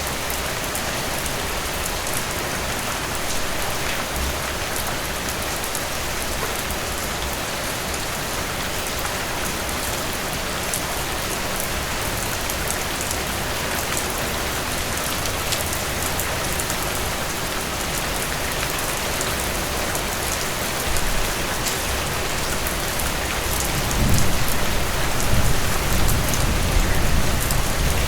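Steady rain falling on a surface, an even hiss with individual drops ticking through it. Near the end a low rumble of thunder swells in underneath.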